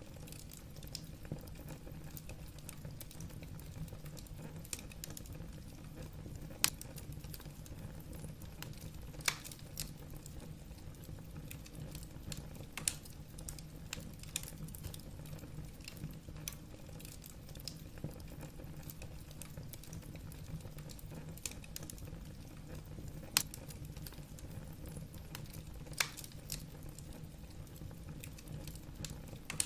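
Wood fire burning in a fireplace: irregular sharp crackles and pops of the burning logs over a steady low rumble of the flames, with a handful of louder snaps.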